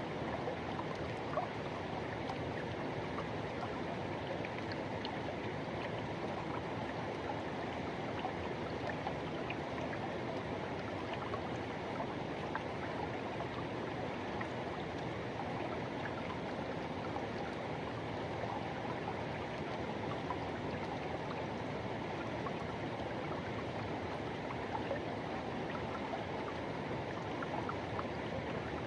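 Forest river rushing over stones, a steady even rush with faint scattered splashes and gurgles.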